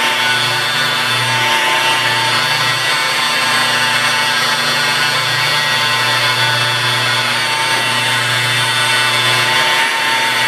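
Rotary car polisher running steadily with a foam composite pad working rubbing compound over the paint, an even motor hum with no change in speed.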